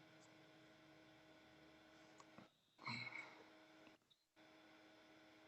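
Near silence: faint room tone with a low steady hum, and one brief faint sound about halfway through.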